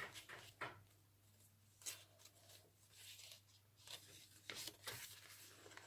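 Faint rustles and light taps of paper pages and cards being handled in a handmade junk journal, a few short ones over a low steady hum.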